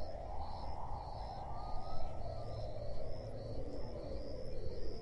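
Insects chirping in a regular pulsed rhythm, about two to three chirps a second, over a steady low rumble.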